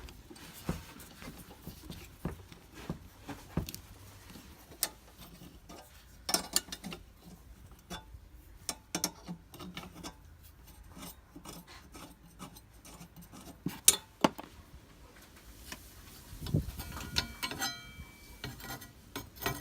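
Metal clicks, scrapes and rattles as a pot stand is worked off an old Peak 1 camp stove and fitted onto a Swiss Volcano stove. There are many sharp clinks scattered throughout, and a briefly ringing metal clink near the end.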